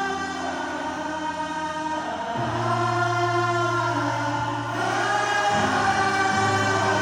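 Live band music recorded from the audience: sung vocals with long held notes over sustained bass notes that change about two and a half seconds in and again about five and a half seconds in.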